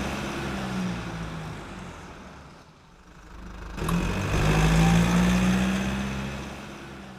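A car engine's deep, steady exhaust note, loud and then fading away, then swelling up again about four seconds in and fading out once more.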